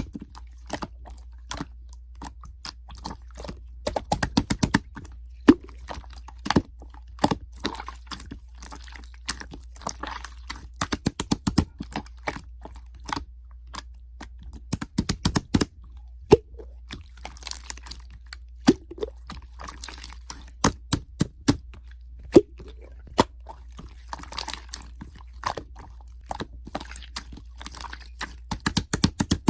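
Clusters of sharp, quick clicks and crackles, a run every second or two with short pauses between, over a faint steady hum.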